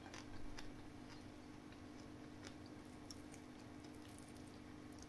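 Faint chewing of a mouthful of fish and rice: soft, scattered mouth clicks over a faint, steady low hum.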